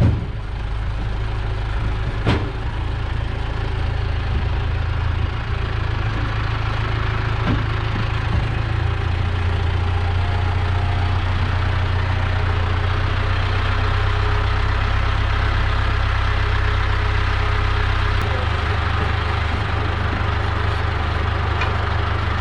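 A vehicle engine running steadily with a deep hum and a broad noise over it, the hum growing stronger partway through; a single sharp click sounds about two seconds in.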